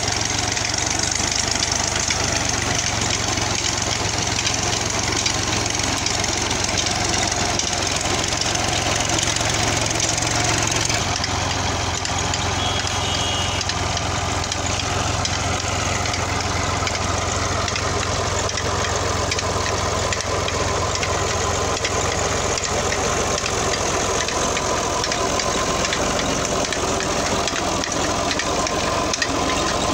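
New Holland tractor's diesel engine running steadily under load while driving an implement through its PTO shaft.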